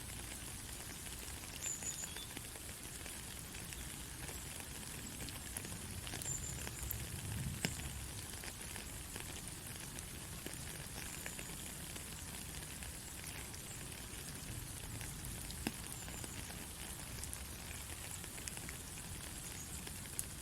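Steady soft rain: an even hiss with scattered sharp drop ticks.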